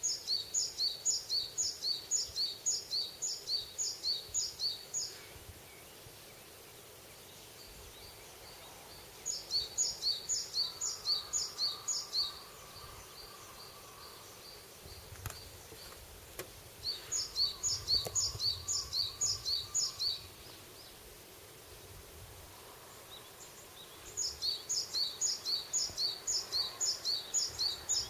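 A songbird singing four bouts of a rapidly repeated high two-note phrase, about two to three phrases a second, each bout a few seconds long with pauses between. Faint forest ambience runs underneath.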